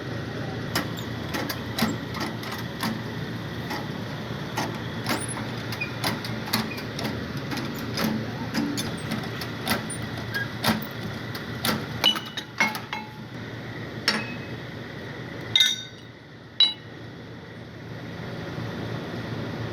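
Irregular metal taps and knocks from tools working on an AC compressor's bearing, one or two a second, with two loud knocks near the end, over a steady background hum.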